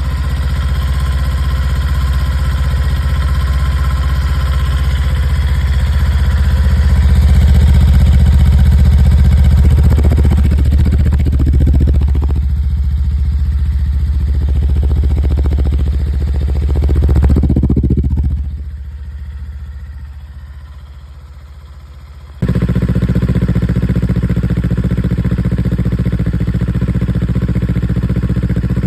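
Kawasaki Eliminator 400's parallel-twin engine running through its exhaust, idling with a couple of revs. About eighteen seconds in the sound falls away, and a few seconds later it cuts abruptly back to a steady idle.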